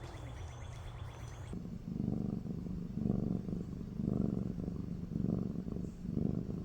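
A domestic cat's meow trails off at the start, then after about a second and a half a cat purring, swelling and fading about once a second with each breath.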